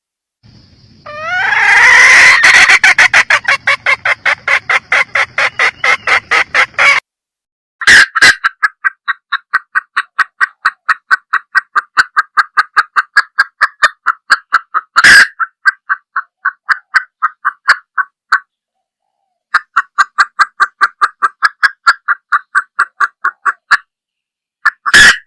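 Red junglefowl hen giving a long series of rapid clucks, about four to five a second, in runs broken by short pauses. The opening run is the loudest. A few sharp clicks cut in.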